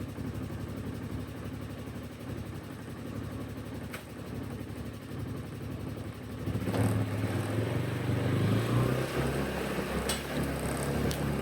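Engine idling with an even low throb, then about two-thirds of the way through it picks up and runs louder and harder, as when a vehicle is put under load or pulls away.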